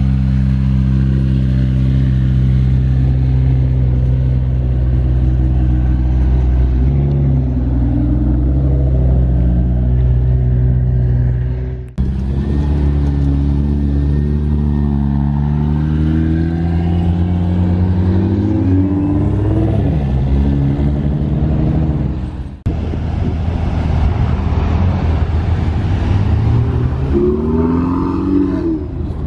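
Exotic and sports car engines idling loudly, with engines revving and cars pulling away several times, the pitch rising and falling as they go.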